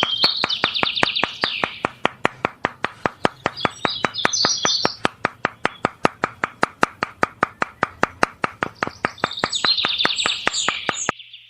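Small birds chirping in bursts over a steady, rapid ticking, about four sharp ticks a second; the sound cuts off just before the end.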